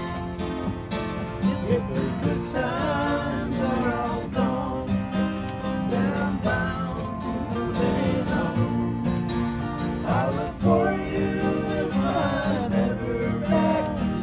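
Country-folk band music: acoustic guitar playing steadily, with a wavering lead melody over it.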